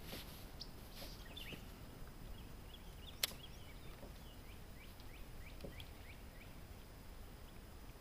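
Quiet river ambience: a low, steady wind rumble with scattered faint, short, high chirps, and one sharp click about three seconds in.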